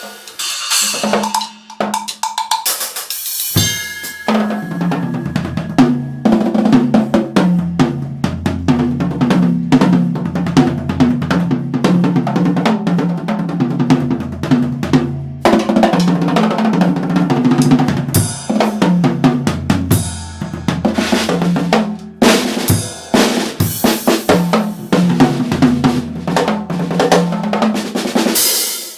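Yamaha acoustic drum kit played fast with sticks: snare, bass drum, hi-hat and Zildjian cymbals, rimshots included. From about four seconds in, the playing becomes dense and runs over a stepping bass line.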